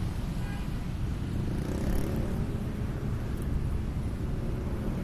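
Steady low rumble of street traffic, with no single vehicle or event standing out.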